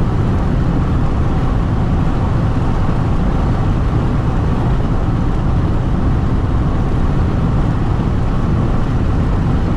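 Steady rumble of wind and road noise inside a Jeep Renegade diesel cruising at about 160 km/h with the windows open.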